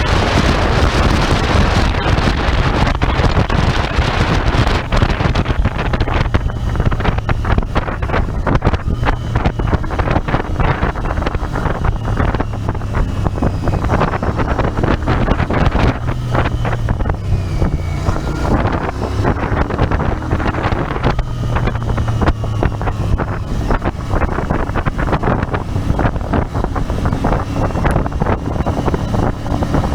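Royal Enfield Interceptor 650's parallel-twin engine running steadily on the road, its low note shifting a little as the revs change, with wind buffeting the microphone, heaviest in the first few seconds.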